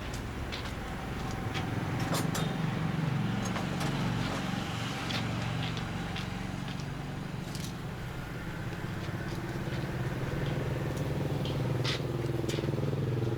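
Small motorbike engine running, rising in pitch near the end as it is revved, with a few sharp clicks.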